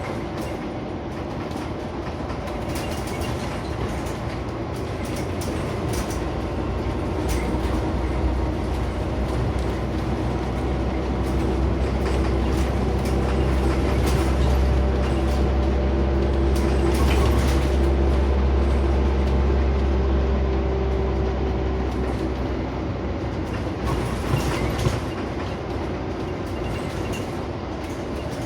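Scania CN94UB Omnicity bus on the move, heard from inside, with its engine running under load. The engine grows louder through the middle and eases off near the end, with a few sharp knocks just before it ends.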